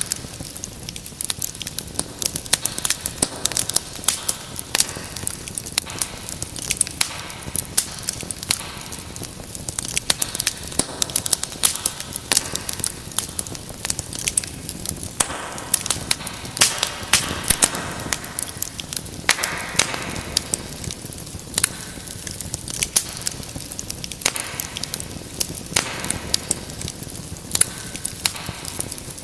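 Wood fire in a fireplace crackling, with frequent sharp pops over a steady hiss of burning.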